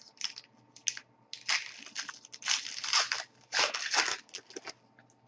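A foil trading card pack being torn open and crinkled by hand, in a run of irregular rips and crinkles that die away near the end.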